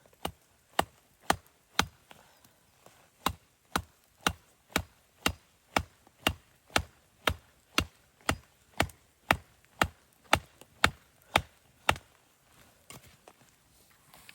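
Wood being chopped: a fast, even run of sharp strikes, about two a second, with a short pause early on. The chopping stops about twelve seconds in, and softer sounds follow.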